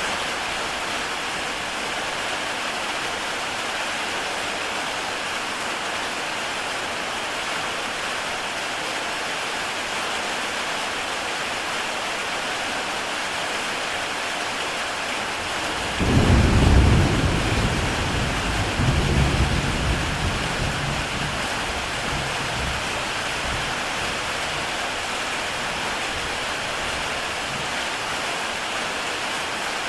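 Heavy rain falling on a tile roof, a steady hiss. A little over halfway through, a roll of thunder comes in suddenly, swells twice and rumbles away over several seconds.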